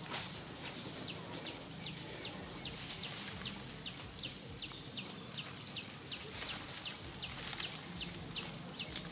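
A bird calling in a steady series of short, high, falling chirps, about two to three a second, against faint rustling of leaves.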